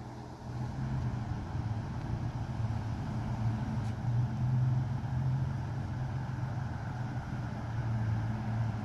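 A motor vehicle's engine running steadily with a low hum, swelling a little around the middle and again near the end.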